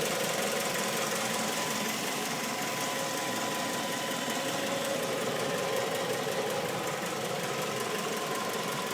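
Mazda 3's four-cylinder engine idling steadily, heard under the open hood. No distinct ticking stands out; the owner hears none at this moment.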